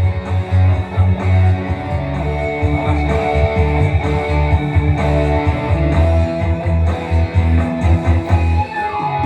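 Electric guitar played through a Valeton GP-200 multi-effects processor, picking a dangdut melody over a strong, steady bass line. A note slides up near the end.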